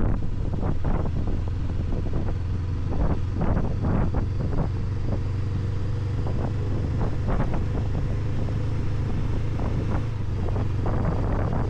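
Honda NX500's parallel-twin engine running at a steady road pace, with wind buffeting the helmet microphone. Scattered short knocks and crackles sound throughout.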